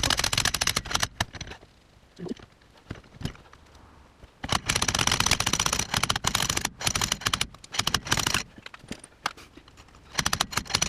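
Socket ratchet clicking rapidly in bursts as bolts are run in to hold a slide-hammer flange on a wheel hub: a short run at the start, a longer run of about four seconds from about four and a half seconds in, and another near the end, with a few single ticks between.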